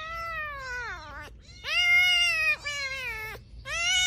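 A domestic cat meowing: a series of long, drawn-out meows, each holding its pitch and then sliding down at the end. The loudest comes about two seconds in.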